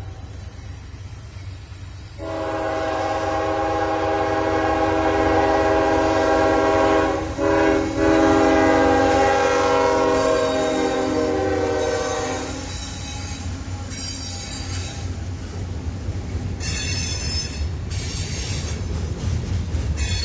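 Locomotive air horn sounding two long blasts run almost together, over the rumble of a passing train. The horn then stops and the train rolls on, with wheel flanges squealing in several short bursts near the end.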